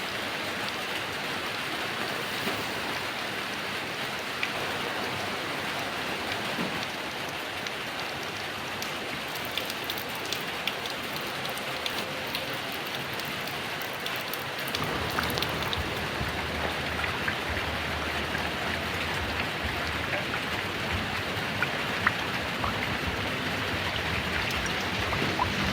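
Heavy rain pouring steadily, with scattered sharp drips and splats of individual drops. About halfway through, a low rumble joins underneath and the rain grows slightly louder.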